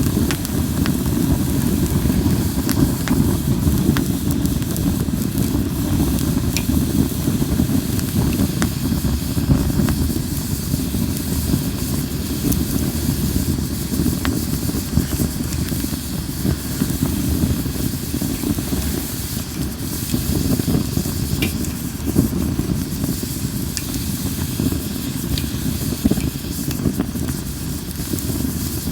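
Campfire of Japanese linden wood burning: a steady low rush of flames with scattered sharp crackles and pops.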